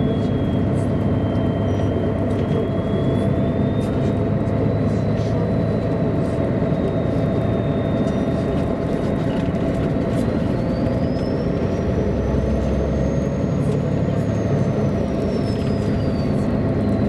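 MAN A23 articulated city bus under way, its engine and drivetrain giving a steady drone. A thin high whine climbs about ten seconds in and falls back toward the end.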